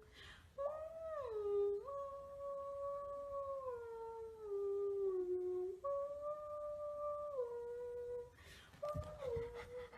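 A dog howling in long drawn-out notes that step and slide down in pitch, four howls in a row, the last one short.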